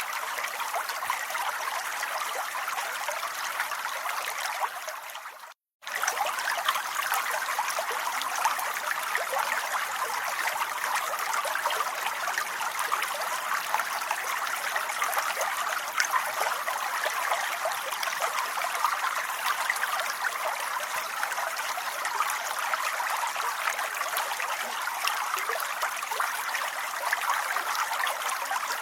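Steady rain: an even hiss of falling water with fine crackle. It fades out to a moment of silence about five and a half seconds in, then comes straight back.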